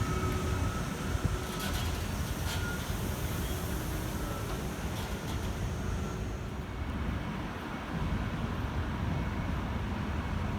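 Train running at the station platform: a steady low rumble, with a faint electric whine in the first few seconds and a few light clicks.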